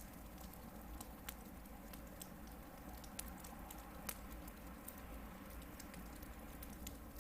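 Hardwood campfire burning, with irregular sharp crackles and pops over a low, steady rush of flame. The loudest pop comes about four seconds in.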